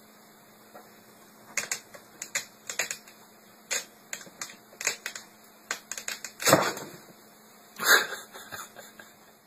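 Irregular sharp clicks and taps, a few dozen over several seconds, with two louder knocks about six and a half and eight seconds in.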